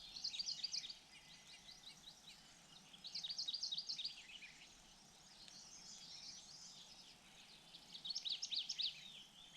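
Small birds chirping in three quick bursts of rapid high chirps: one at the start, one about three seconds in, and one near the end, with faint background hiss between them.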